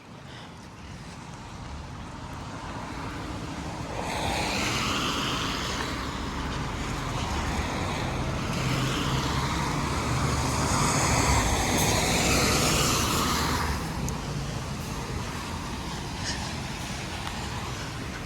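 Road traffic passing on a rain-wet street: tyre hiss over a low engine hum, building over the first few seconds, loudest midway, and falling off sharply about three quarters of the way through.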